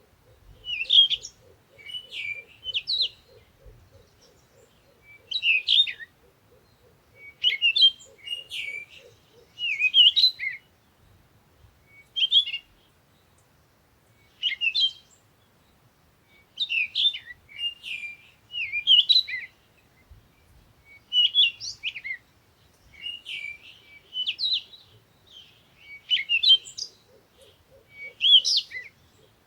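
Small birds chirping in short, repeated phrases every second or two, with brief gaps. A faint, rapid pulsing buzz runs under the chirps for the first third and returns near the end.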